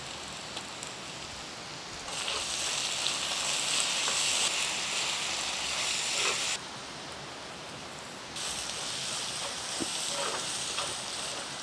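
Sliced shallots and green chillies sizzling in hot oil in a black iron kadai: a steady hiss that grows louder for a few seconds, drops back, then rises again. A few light scrapes of the spatula come near the end.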